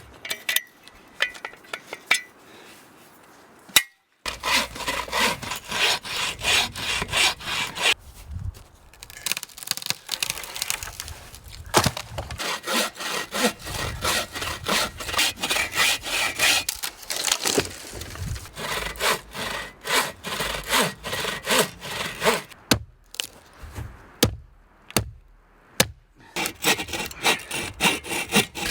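Hand saw cutting through wood in quick, repeated back-and-forth strokes, with short pauses between runs. A few sharp knocks come near the start and near the end.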